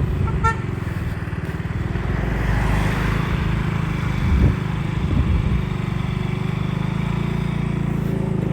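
KTM Duke 200's single-cylinder engine running steadily while the motorcycle is ridden along the road, with a short horn toot about half a second in.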